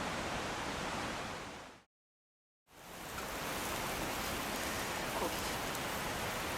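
Steady rushing of a clear mountain river. It fades out about a second and a half in, cuts to complete silence for under a second, then fades back in and continues steadily.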